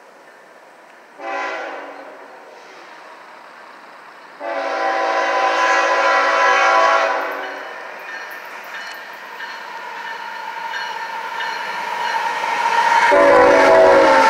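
Air horn of a CSX freight train's lead GE ET44AH diesel locomotive: a short blast about a second in, then a long blast of about three seconds. The train's rumble then builds as it approaches, and the diesel locomotives pass close and loud near the end.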